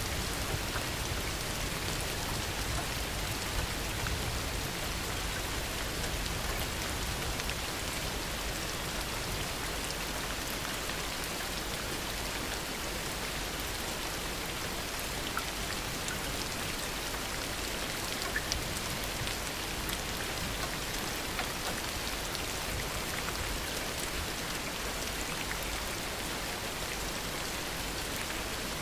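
Heavy rain falling steadily, with scattered individual drops ticking through the even downpour.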